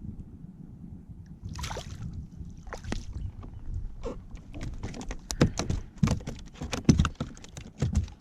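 A small snapper being landed into a kayak: water sloshing against the hull, then a quick run of sharp slaps and knocks in the second half as the fish comes aboard.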